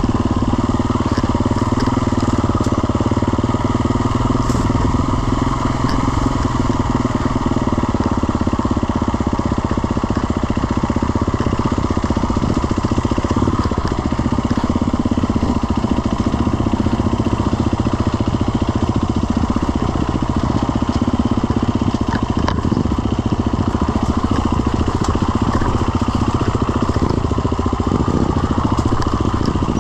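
Off-road motorcycle engine running steadily with a rapid firing rhythm, holding a fairly even pitch with no large revs.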